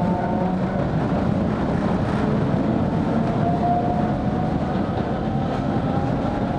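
Narrow-gauge 270-series electric train running steadily, heard from inside the car: a continuous rumble of wheels and running gear with a faint motor whine over it.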